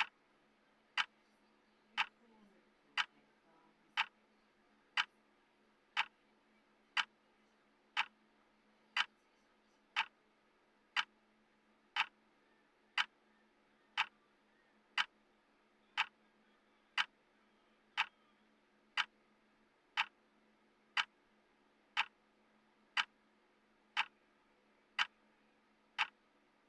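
Clock tick sound effect of a countdown timer: one short, sharp tick every second, perfectly even.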